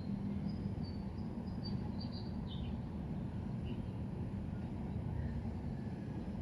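Steady low rumble of background ambience, with a few faint, high chirps in the first three seconds.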